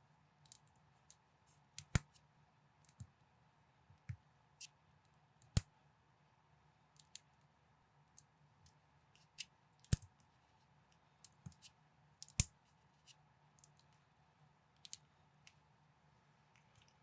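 Plastic building bricks clicking and snapping together as pieces are fitted by hand: irregular sharp clicks, with a few louder snaps spread through.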